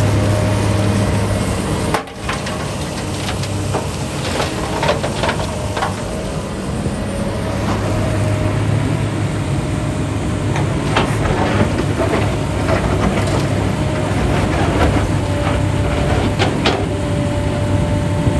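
Heavy machinery engine running steadily, with scattered knocks and clatter through most of it, as of rock being handled. The sound drops out briefly about two seconds in.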